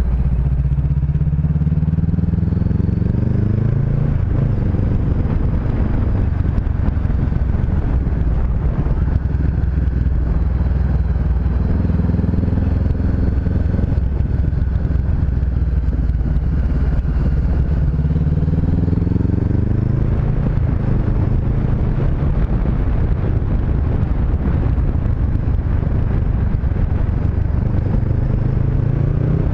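Honda CB500X's parallel-twin engine under way, pulling up through the revs and dropping back several times as the rider accelerates and shifts, with wind rushing over the helmet-mounted camera's microphone.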